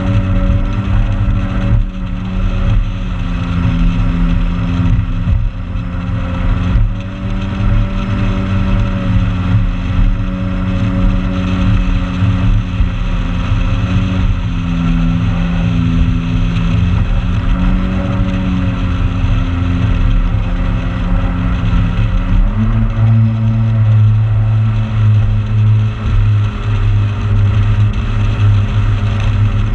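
Motorboat engine running steadily under way, its note wavering slightly; about 22 seconds in the engine note shifts up a little and stays there.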